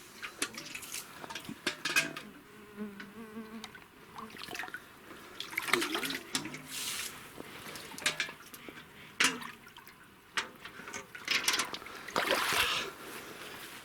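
A fly buzzing close by in a wavering drone, among irregular rustles and crackles of movement through forest undergrowth.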